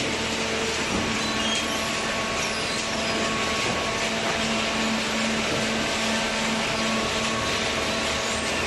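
Hydraulic cardboard baler running: a steady mechanical hum with a constant low tone and a noisy rush.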